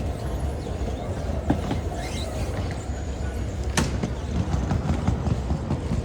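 Steady low rumble of a moving vehicle heard from inside the cabin, with one sharp click about two thirds of the way in.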